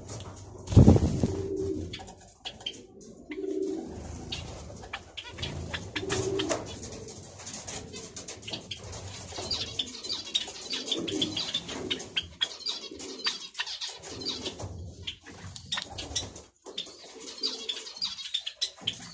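Zebra doves cooing in short low phrases every few seconds, among many small high chirps and clicks. There is one loud thump with a wing flutter about a second in.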